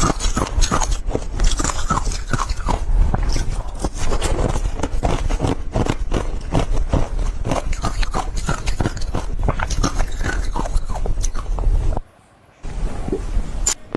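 Ice being bitten and chewed: a dense run of loud, sharp crunches and crackles, with a brief break of about half a second near the end.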